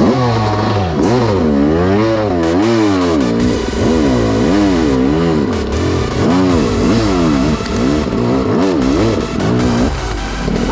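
Yamaha YZ250X two-stroke single-cylinder engine revving up and falling back over and over, about once a second, as the throttle is worked riding off-road.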